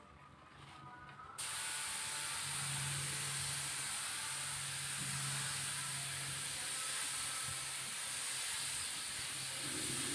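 Spray gun hissing steadily as it sprays finish onto a bird cage, switching on suddenly about a second and a half in.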